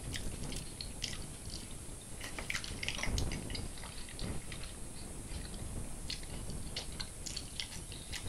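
A man chewing and biting fried catfish, with many short wet mouth clicks scattered throughout.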